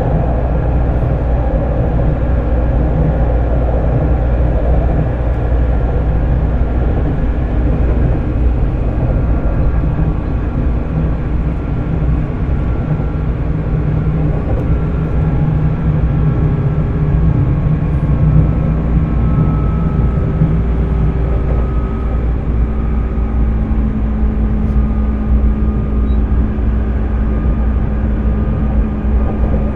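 JR 205 series electric train motor car with MT61 external-fan traction motors running along the line: a steady, loud rumble of wheels and running gear, with faint motor and fan tones that come and go and shift slightly in pitch through the middle and later part.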